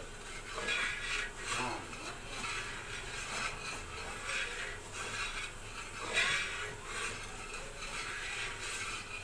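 Automatic mawa kettle running: its motor-driven stirrer scrapes and rubs around the steam-heated pan with a steady mechanical grinding, broken by faint irregular knocks.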